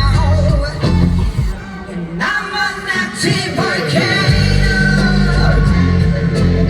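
Live amplified rock-pop music with a singer; the bass and drums drop out for a couple of seconds and come back in about four seconds in.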